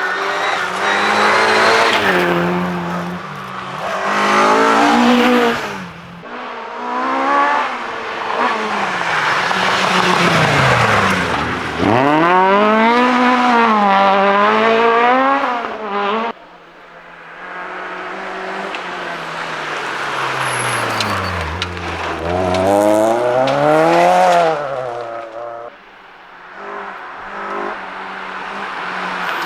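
Rally car engines revving hard through a run of short clips, the pitch climbing and dropping again and again as the drivers accelerate, lift and change gear. The cars pass close, with some tyre squeal, and the sound cuts suddenly between clips a few times.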